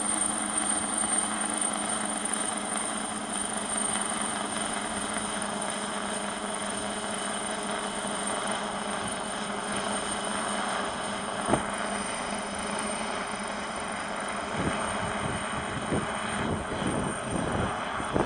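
Search-and-rescue helicopter hovering during a winch rescue: a steady whine of its turbine engines over rotor noise, holding an even pitch. A few short knocks come through, one about two-thirds in and several near the end.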